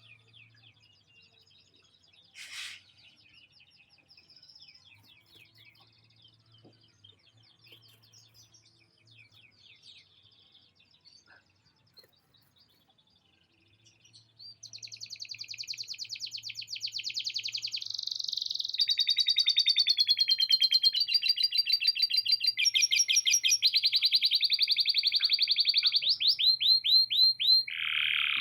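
Canary singing: faint twittering for about the first half, then loud, fast trills and rolls from about halfway on, each a rapid run of repeated notes, one phrase changing into the next.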